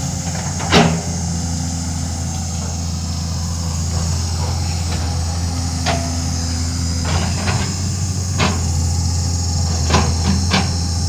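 Excavator's diesel engine running steadily, with sharp knocks from the machine working: a loud one about a second in and several more near the end.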